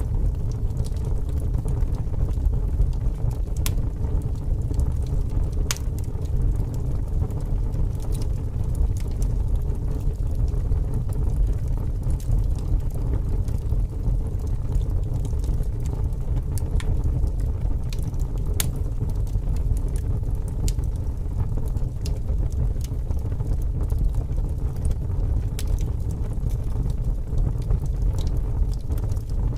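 Wood fire crackling, with scattered sharp pops over a steady low rumble of strong wind.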